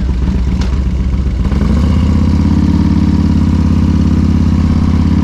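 Harley-Davidson Road King's V-twin engine with a Zippers Muscle 107 kit, running on the road. About a second and a half in, the engine note gets louder and fuller and then holds steady.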